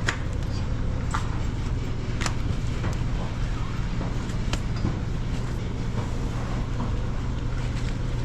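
A steady low engine hum, like a machine running, with a few sharp clicks over it.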